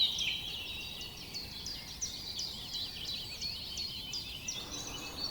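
Many small birds chirping together in a dense, steady chorus of quick, high notes.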